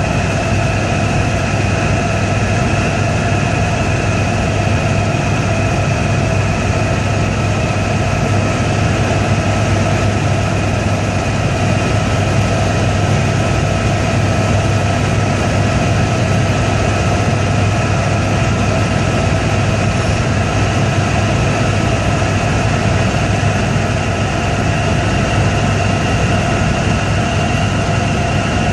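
Helicopter in flight: loud, steady engine and rotor noise with a deep hum and a constant high whine.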